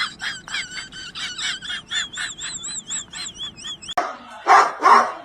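A rapid series of short, high chirping calls, about four a second, with a wavering whistle-like tone in the middle. About four seconds in it cuts to a dog barking loudly, two barks.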